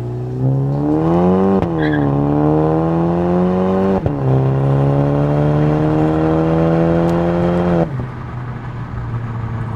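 2019 Volkswagen Jetta GLI's turbocharged 2.0-litre four-cylinder accelerating hard through a Neuspeed stainless catback exhaust: the revs climb from about half a second in, drop with an upshift at about a second and a half, climb again, drop with a second upshift at about four seconds, then climb slowly until the throttle closes near eight seconds and the note falls back to a steady cruise.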